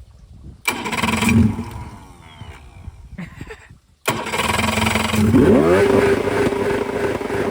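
A boat's V4 engine being cranked over twice on its electric starter, turning but not yet firing properly. On the second try, a little past halfway, the pitch rises and then holds steady.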